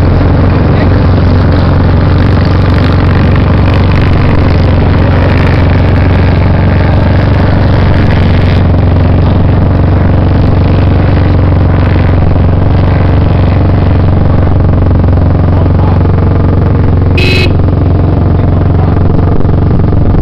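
Loud, steady off-road motorcycle engine noise, with a short high-pitched beep near the end.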